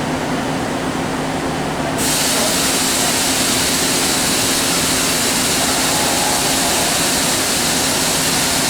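Kuraki KHM-125 CNC horizontal machining center running with a steady low hum. About two seconds in, a loud, steady hiss sets in abruptly and holds.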